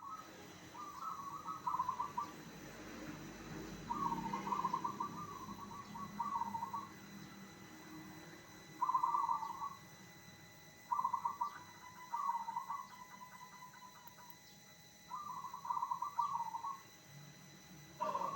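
Zebra dove (perkutut) cooing: short phrases of rapid, trilled coos, each about a second long, repeated every two to three seconds.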